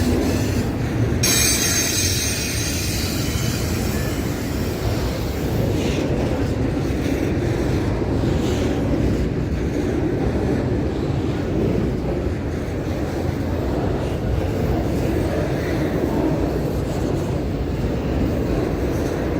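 A train rolling past with a steady rumble of wheels and cars on the rails. Its wheels squeal high-pitched from about a second in to about six seconds in.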